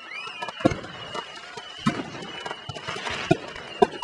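Aerial firework shells going off: a run of separate sharp bangs, roughly one every half second to a second.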